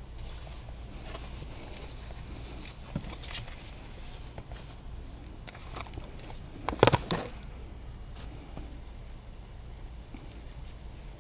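Steady high-pitched insect drone, with a few light clicks and a cluster of sharp knocks about seven seconds in from utensils and containers being handled during food preparation.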